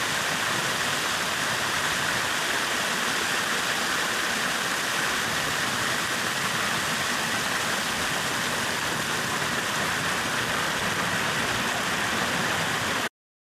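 Steady rushing of a stream or small waterfall, an even unbroken noise that stops abruptly near the end.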